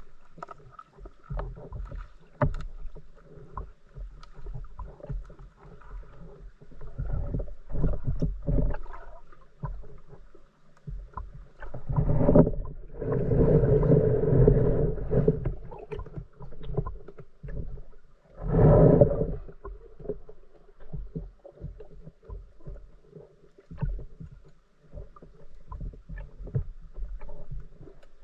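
Water sloshing and splashing around a spearfishing diver, with several louder surges of splashing and bubbling.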